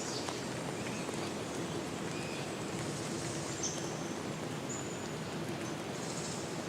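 Steady rain falling, with a few short, high bird chirps scattered through it.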